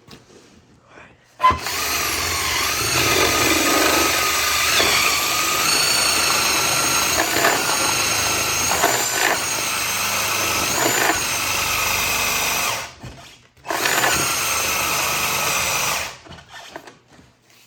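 Cordless drill motor whining under load in one long run, then a short second run that stops: the tool's battery is going dead.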